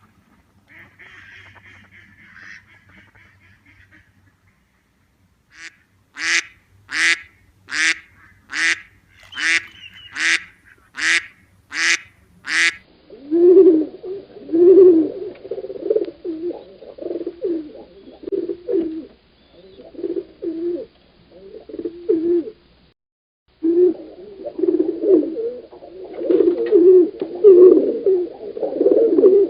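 Bird calls in two parts. First a run of about nine loud, sharp calls, just under a second apart. Then many low, overlapping honking and quacking calls, typical of a flock of ducks or geese, which stop briefly and start again.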